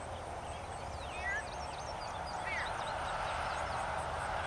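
Short, sweeping bird chirps, a few of them about a second and two and a half seconds in, over a steady outdoor hiss.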